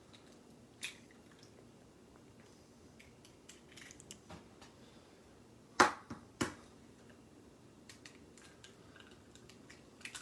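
Raw eggs being cracked and handled: scattered light taps and clicks, with a sharp crack about six seconds in and a smaller one just after.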